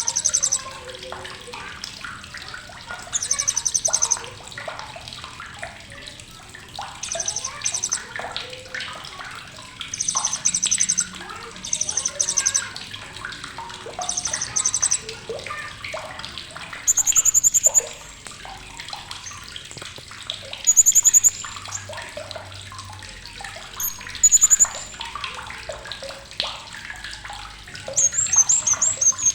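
Blue-crowned hanging parrot (srindit) giving sharp, very high-pitched rapid chattering trills. The short bursts repeat every couple of seconds over a steady background of softer chirps.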